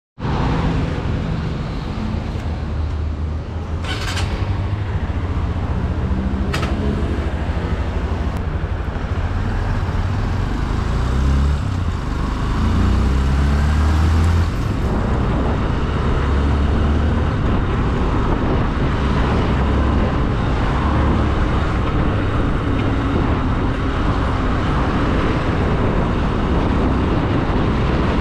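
Motorcycle engine running on the move, its pitch climbing in steps as it accelerates through the gears, loudest about halfway through, over a steady rush of wind noise on the microphone. Two short sharp clicks come about four and six and a half seconds in.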